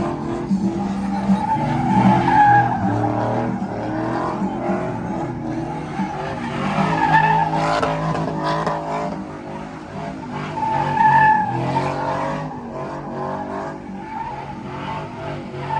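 Truck engines running, with tires squealing in three bursts.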